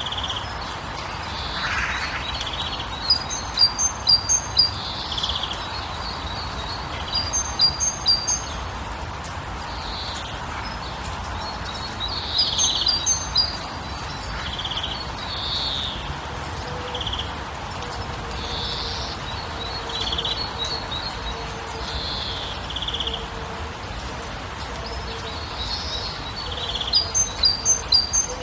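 Wild birds singing: one repeats a quick run of high, sharp notes every few seconds, with softer calls between, over a steady background hiss.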